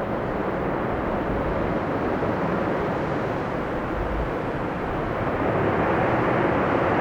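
Jet airliner engines running as the aircraft approaches or lands, growing louder over the last couple of seconds, with storm-force wind buffeting the microphone in low rumbling gusts.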